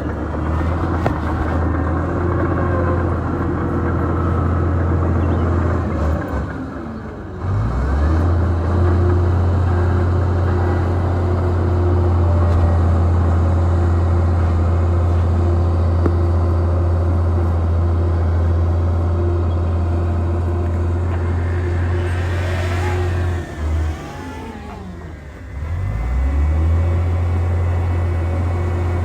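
Diesel engine of a heavy earthmoving machine running steadily under load. Its note dips and then climbs back twice, once about a quarter of the way in and again near the end.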